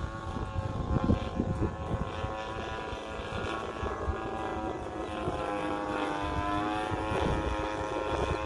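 The DLE 35 single-cylinder two-stroke gasoline engine of a Seagull Models Van's RV-8 radio-control plane, running at a steady pitch at part throttle as the model flies. Wind rumbles on the microphone.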